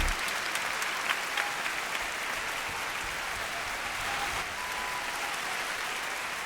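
Audience applauding steadily after the last note of a sung performance, a haze of many hand claps with a few sharper individual claps standing out.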